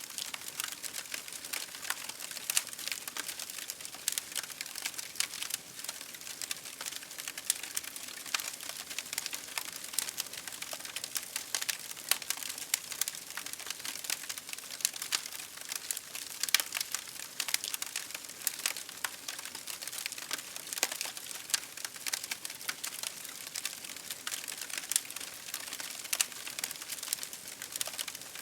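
Campfire crackling: a dense, irregular run of small pops and snaps over a soft steady hiss, with a few louder snaps here and there.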